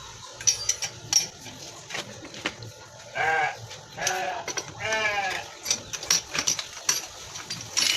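Bleating animal calls, three wavering bleats about three, four and five seconds in, over scattered sharp clicks and knocks.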